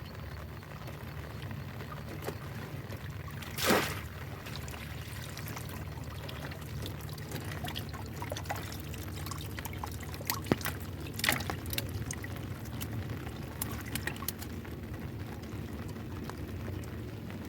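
Water splashing and trickling, with one louder splash about four seconds in and a run of small splashes and drips later on, over a steady low rumble.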